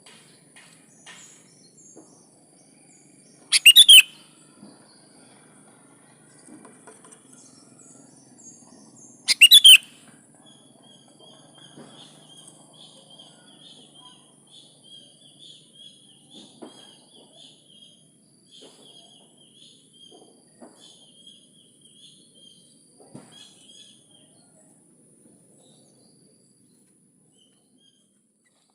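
Sooty-headed bulbul (kutilang) calling: two very loud, short call bursts about four and nine seconds in, then a faint run of quick twittering notes that fades out near the end.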